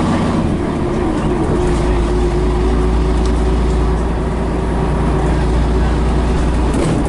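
Scania BR111H / MCW Metropolitan double-decker bus's diesel engine pulling under way, heard from on board as a steady drone. The deep part of the engine note drops away near the end.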